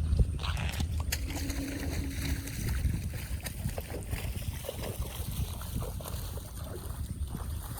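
Running, churning water with scattered knocks and clicks over it.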